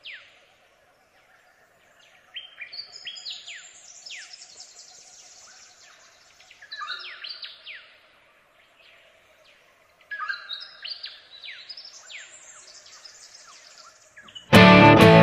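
Forest birds calling in three bouts of quick, falling whistled notes, several birds overlapping, over a faint steady hum. Loud acoustic guitar music starts near the end.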